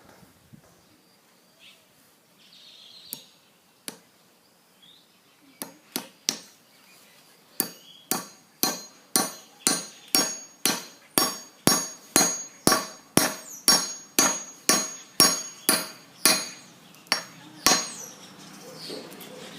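Hammer blows driving a wooden wedge into the eye of a splitting maul's new handle. A few scattered taps come first, then a steady run of about two ringing strikes a second for some ten seconds, stopping near the end.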